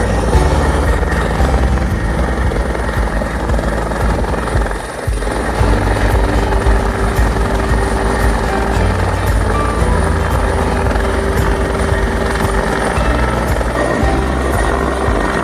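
Canadian Forces search and rescue helicopter's rotors and engines running, a loud steady noise heaviest in the low end, with a brief dip about five seconds in.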